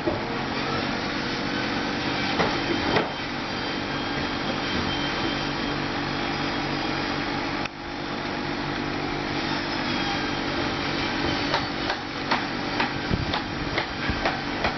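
A small motor running steadily, with scattered clicks and knocks that come more often near the end.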